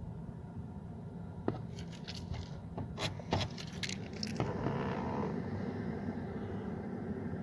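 Sharp clicks and scraping of handling under a car's dashboard, then about four and a half seconds in a steady whirring rises as the climate control's flap servos and blower move, with a short tone near its start.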